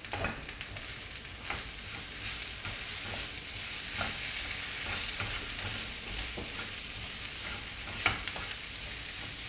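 Diced potatoes with poppy seed frying in mustard oil in a pan, a steady sizzle as they are stirred, with a few light clicks; the sharpest click comes near the end.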